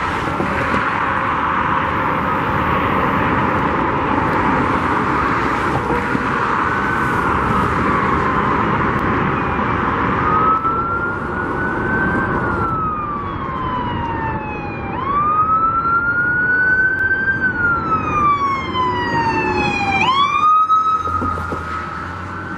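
An emergency vehicle's siren in a slow wail, its pitch rising and then falling about every four to five seconds and growing louder in the second half. Behind it is a steady rush of wind and road traffic.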